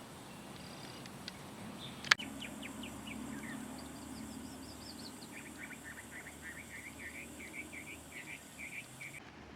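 Small birds chirping, ending in a quick run of short, repeated chirps over the last few seconds. A single sharp click about two seconds in is the loudest sound.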